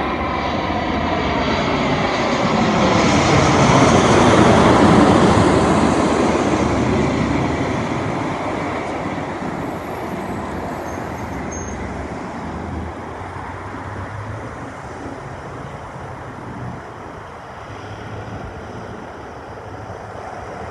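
Boeing 787-9 twin-engine jet on landing approach passing close by: the jet noise swells to its loudest about four seconds in, with whining tones falling in pitch as it goes past, then fades to a lower rumble.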